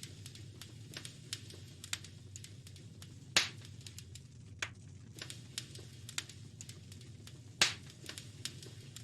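Wood fire crackling in a fireplace: scattered light snaps and two louder pops, about three and a half and seven and a half seconds in, over a steady low rumble.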